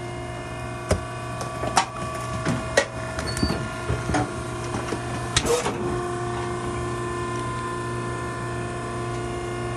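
Baler running with a steady motor hum. Over the first six seconds a string of sharp cracks and crunches comes as the load is crushed, after which only the steady hum remains, its pitch slightly changed.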